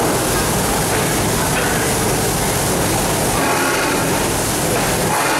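Open-air passenger train running on its rails, a steady rumble and rush of wheel and running noise.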